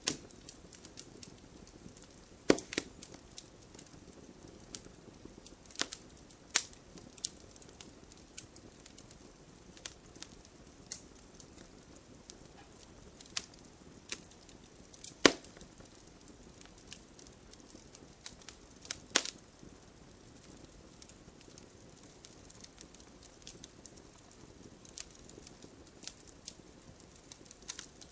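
Fireplace fire crackling: irregular sharp pops and snaps over a low, steady hiss, with a few much louder pops, the loudest about halfway through.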